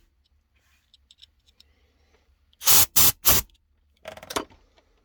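Three short blasts of compressed air, a blow gun clearing the passages of a lawnmower carburettor during cleaning, followed by a shorter fluttering puff. Faint clicks of small parts being handled come before them.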